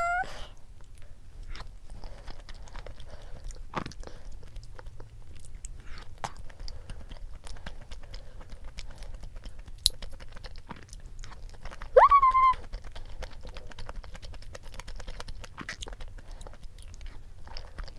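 Close-miked chewing and wet mouth sounds of someone eating creamy truffle-cream risotto, with light clicks of a wooden spoon against a wooden bowl. About twelve seconds in, a short rising hum from the eater.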